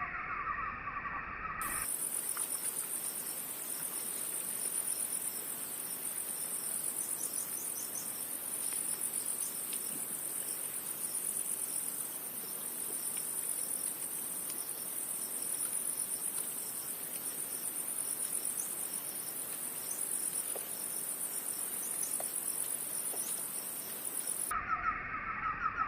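Chorus of insects, crickets by the tags, trilling steadily at a high pitch with a fast pulse. It starts abruptly about two seconds in and stops abruptly near the end. Before and after it, a lower trilling animal chorus is heard.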